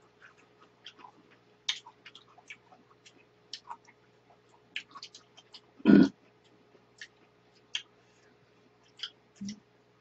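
Close-miked eating: chewing and lip smacks, a run of small wet clicks. A short loud vocal sound about six seconds in and a fainter one near the end.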